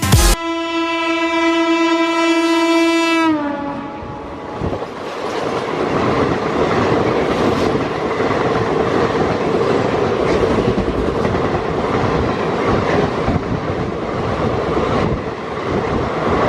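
Locomotive horn sounding one steady blast of about three seconds, its pitch sagging as it cuts off. Then the rumble of a train running at speed heard from aboard the coach, with wheels clicking over rail joints.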